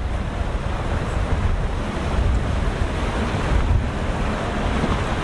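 Wind buffeting the microphone over the steady wash of rough surf, a heavy low rumble with no clear engine note.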